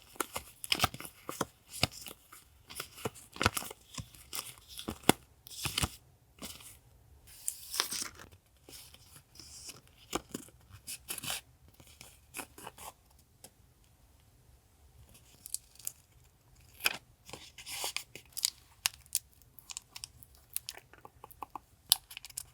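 Paper and plastic sticker packaging being handled and torn open: irregular bursts of crinkling, rustling and short tearing sounds, thinning out to a few light clicks about two-thirds of the way in before picking up again.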